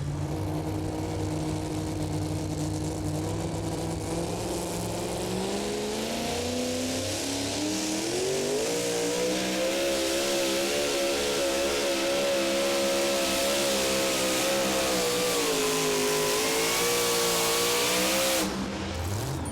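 Super modified two-wheel-drive pulling truck's engine running hard under load: its pitch climbs for a few seconds, holds high and wavers, dips briefly, rises again, then cuts off suddenly near the end as the pull ends.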